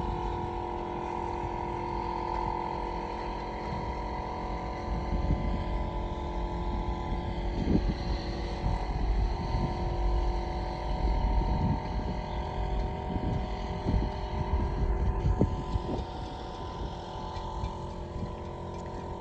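Bayliner 285 Ciera motor cruiser's engine running steadily, with a low rumble that rises and falls beneath it.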